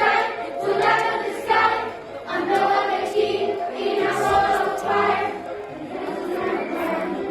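Song sung by a group of voices in chorus over an instrumental backing with a moving bass line.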